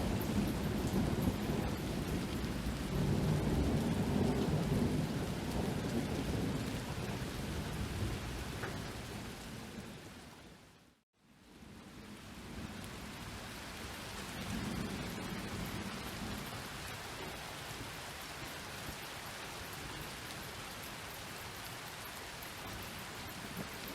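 Steady rain with low rolling thunder, the rumble swelling near the start and again later. Just past the middle the whole sound fades out to silence and returns within about a second.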